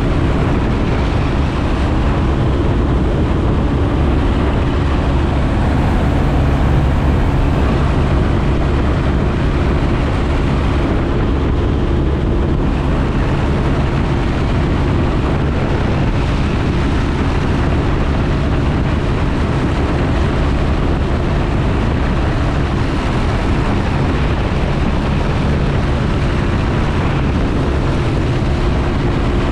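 Piper J-3 Cub's engine and propeller droning at a steady cruise, with rushing wind, heard from inside the open-framed cockpit.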